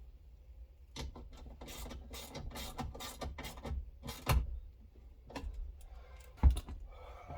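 Hand-tool work on the window glass and regulator fixings inside a car door: a quick run of clicks and scrapes, a knock about four seconds in and a sharper knock near the end.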